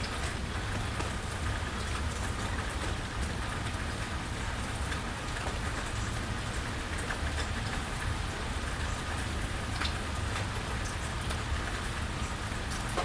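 Steady rain falling and dripping on surfaces around a porch, with scattered drop ticks over a constant low rumble.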